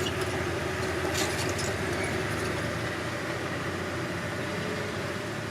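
Diesel engine of a Komatsu D31P bulldozer running steadily, with a brief high rattle about a second in.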